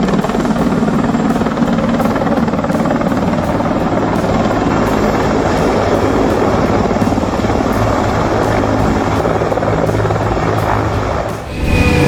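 Helicopter running steadily at close range, engine and rotor noise continuous, stopping abruptly near the end.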